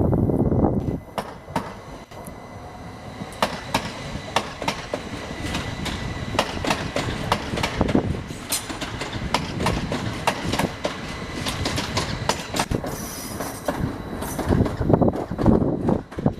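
Class 333 electric multiple unit moving through the station, its wheels clattering in irregular clicks over rail joints and points, with a faint high steady whine.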